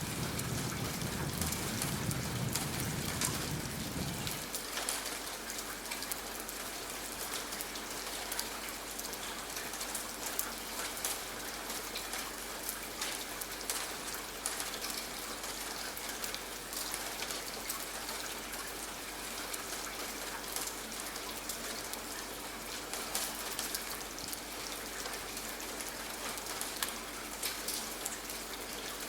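Steady rain with a dense patter of drops. A low rumble underneath stops about four seconds in.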